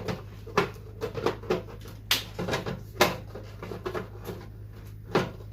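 Hard plastic refrigerator parts being handled and fitted in place: a string of sharp, irregular clicks and knocks, the loudest about two and three seconds in, with a last one about five seconds in.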